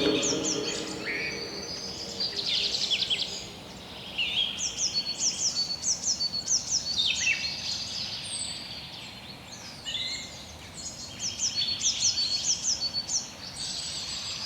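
Songbirds singing: repeated runs of quick, high, descending chirps from several birds overlapping, with pauses between the phrases.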